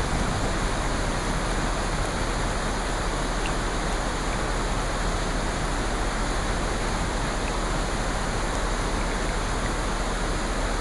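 Steady, even hiss of rushing water from a nature-sounds ambience, with a few faint ticks.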